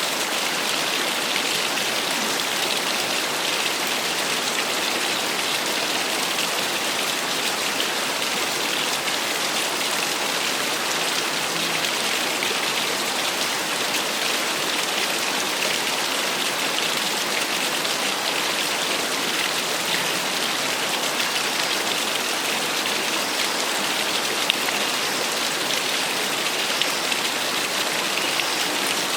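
A small waterfall splashing steadily, a constant even hiss of falling water, bright and rain-like.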